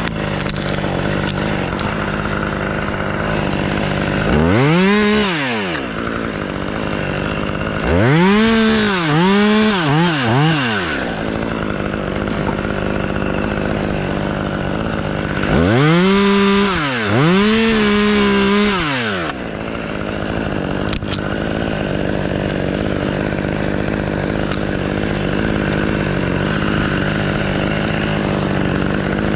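Chainsaw running steadily, its engine speed swelling up and falling back once about five seconds in, three times in quick succession a few seconds later, and twice more past the middle.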